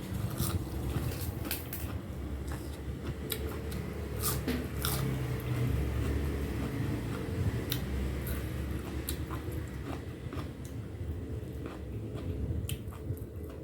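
Close-up eating sounds: a person biting and chewing spicy pounded papaya salad with blue swimming crab, with repeated short crisp crunches and smacks.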